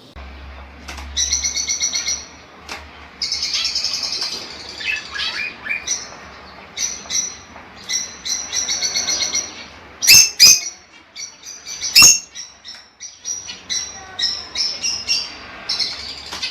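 Lovebirds chirping and chattering in quick trains of high chirps, with three sharp, loud sounds about ten to twelve seconds in.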